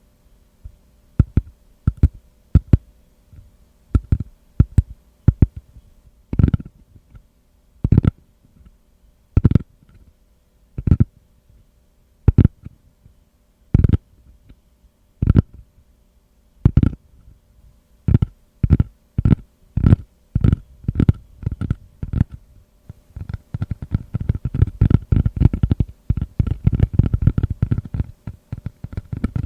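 Tapping on a tatami mat, dull soft taps on woven rush. Single taps come slow and evenly spaced, about one every second and a half, then quicken. From about three-quarters of the way through they become a fast, dense flurry.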